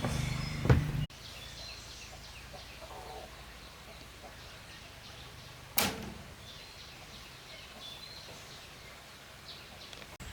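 A steady hum cuts off abruptly in the first second, leaving a quiet background with faint bird chirps. About six seconds in there is a single sharp knock.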